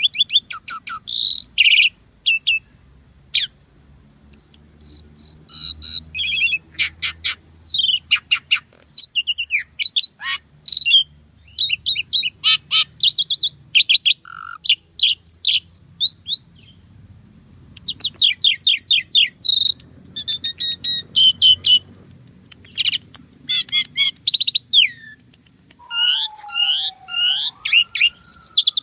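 Asian pied starling singing a long, varied stream of chattering, squeaky and whistled phrases broken by short pauses. Near the end comes a lower drawn-out whistle that glides up and then down.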